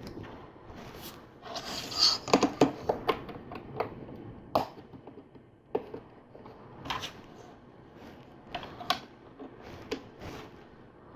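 LEGO plastic bricks clicking, tapping and rattling as pieces are picked out and pressed together, with a brief rustle of sorting through loose parts about two seconds in.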